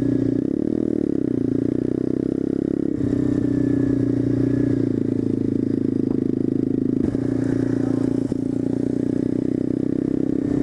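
SSR 125 pit bike's small single-cylinder four-stroke engine running steadily at riding speed. Its pitch dips briefly and rises again about a second in.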